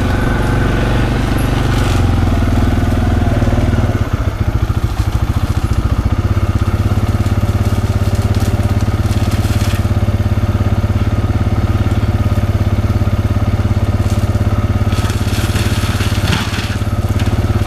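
Bobcat's diesel engine running hard to drive a forestry cutter mulching head, with crunching bursts about halfway through and again near the end as the cutter grinds through brush and small trees.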